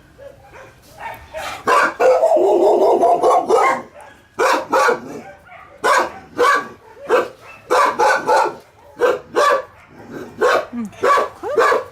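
A dog barking over and over, roughly one to two barks a second, with one longer drawn-out call about two seconds in.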